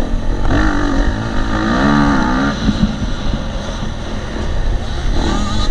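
2018 KTM 250 SX-F four-stroke single-cylinder motocross engine running hard on the track. Its revs rise and fall between about half a second and two and a half seconds in, over a steady heavy rumble and wind noise.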